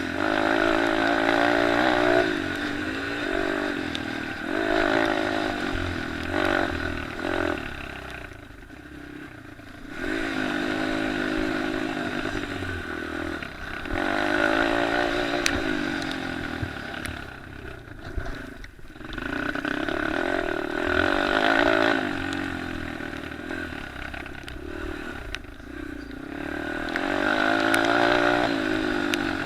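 Small pit bike and minicross engines revving up and down as bikes race around a motocross track, growing louder and fainter as they come past, with a lull about eight to ten seconds in.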